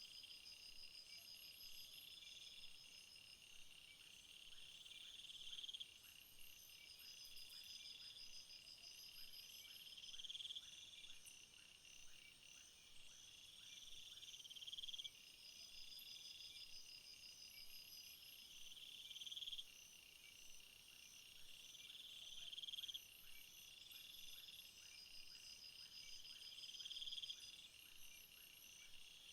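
Crickets and other field insects chirping in a steady chorus. One buzzing trill swells and stops abruptly about every four to five seconds, over faster, steadier pulsed chirps.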